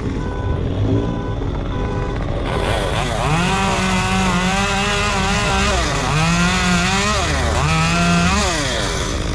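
Chainsaw engine revved up to full throttle about two and a half seconds in, held, and revved twice more in short bursts. A reversing beeper sounds in the first couple of seconds.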